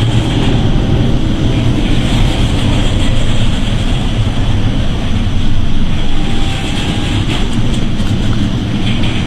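Loud, steady roar of storm wind and heavy sea aboard a ship, with wind rumbling on the microphone.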